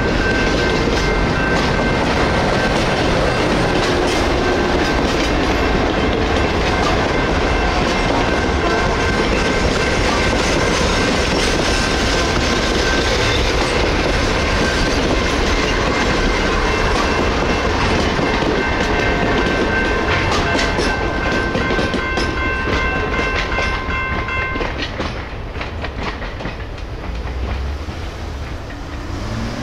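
Napa Valley Wine Train passenger cars rolling through a grade crossing, wheels running on the rails, while the crossing bells ring steadily. About 25 seconds in the bells cut off and the train sound fades as the last car clears.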